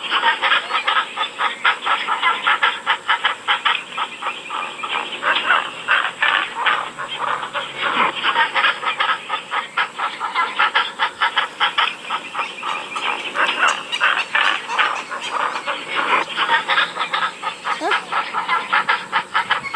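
A large flock of waterfowl calling all at once: many short calls overlapping continuously, several a second, with no pause.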